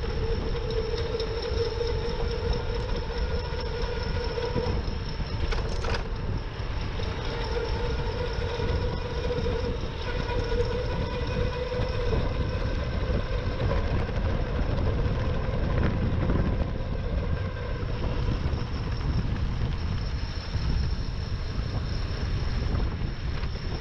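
Riding an e-bike: a steady motor whine that drifts slightly in pitch, over heavy wind rumble on the microphone. A short click about six seconds in.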